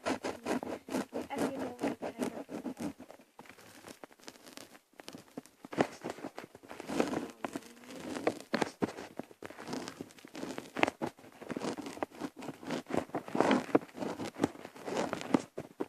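Close rustling and crackling, with many small irregular clicks and scratches.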